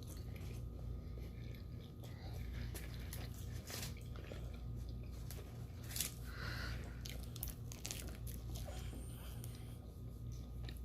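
Close-up eating sounds: a person biting and chewing food, with scattered small crunches and wet mouth clicks, over a steady low electrical hum.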